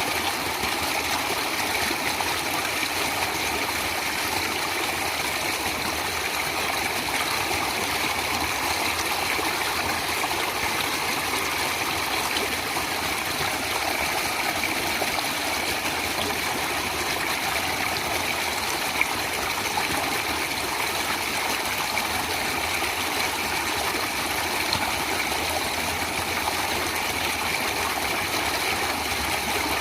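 Stream water flowing and rushing steadily, with no breaks.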